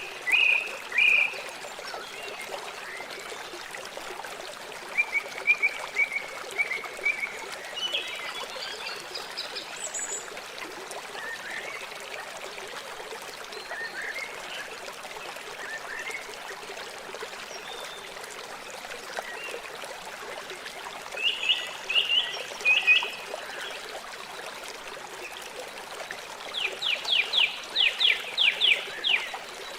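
River water flowing steadily, with birds calling over it: scattered short chirps, and a fast run of about ten sharp notes near the end.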